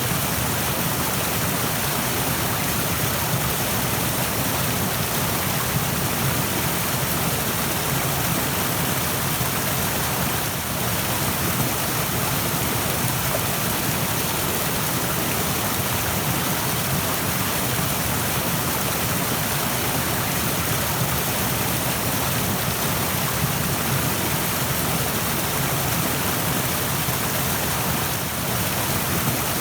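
Rushing stream: fast water running over rocks in a steady, even hiss.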